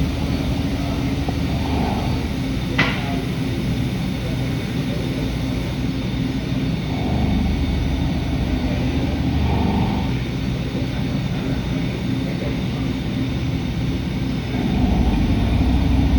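Hurco CNC milling machine running with a steady mechanical drone. There is a single sharp click about three seconds in, and the noise gets louder near the end.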